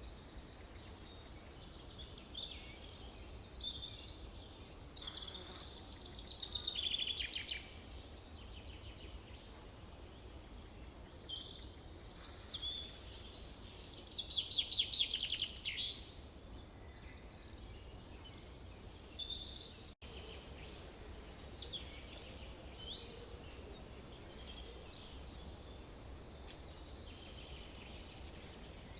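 Several birds singing and calling in a forest, with many short chirps and two louder rapid trills about six and fourteen seconds in, over a steady low background rumble.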